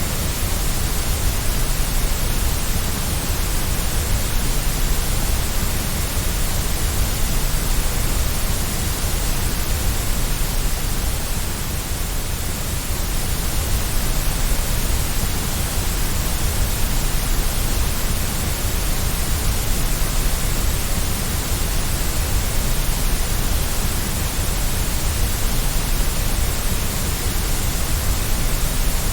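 Steady white noise for soothing a baby to sleep: an even, unchanging hiss with a deep rumble underneath.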